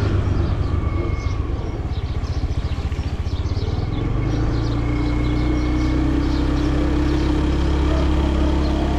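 Vehicle engine and road noise while driving, a steady low rumble whose engine note shifts about four seconds in.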